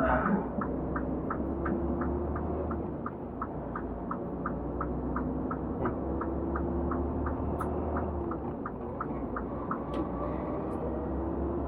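Semi-truck cab with the diesel engine running as a steady low drone, and an even, rapid ticking about four times a second over it.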